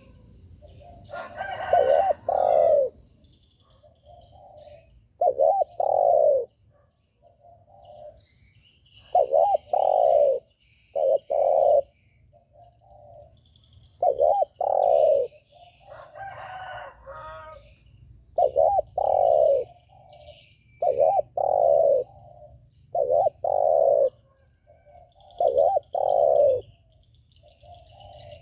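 Spotted dove cooing over and over, a short low phrase of two or three coos every two to three seconds. A rooster crows twice, about two seconds in and again about sixteen seconds in. Small birds chirp faintly in the background.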